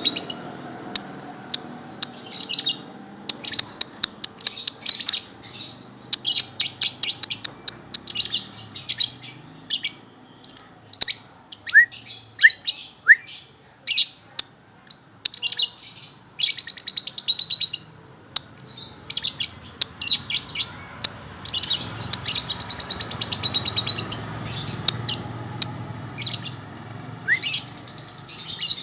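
Songbird singing in repeated bursts of rapid, high-pitched chirps and trills with short pauses between them, with a few quick rising whistles now and then.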